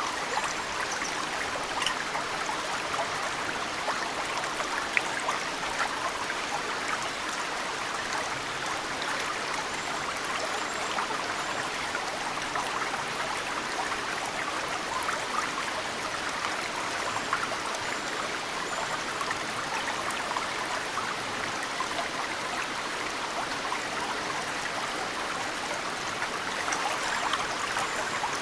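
Small mountain stream flowing steadily, with snowmelt drips landing in the water as occasional sharp ticks. A few faint high bird chirps come and go.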